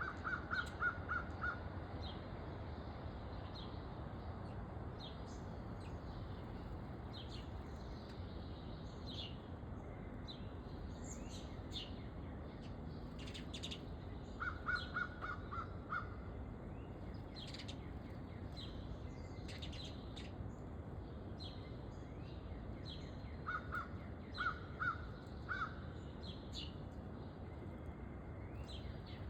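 Wild birds calling around a backyard feeder: frequent short, high chirps throughout, and three runs of quick, harsh repeated calls, about five or six notes each, near the start, in the middle and near the end, over a steady background noise.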